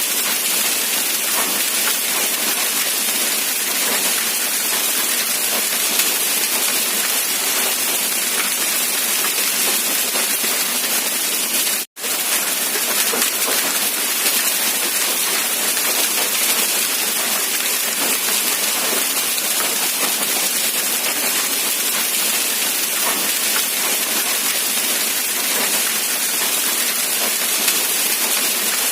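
Steady rain falling, a dense even hiss without pause except for a momentary dropout about twelve seconds in.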